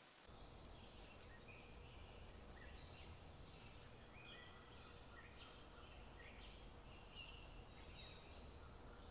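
Faint birdsong in quiet forest ambience: scattered short, high chirps over a low background hum.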